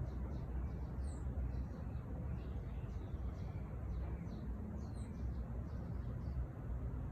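Small songbirds chirping, with many short high notes scattered throughout, over a steady low rumble.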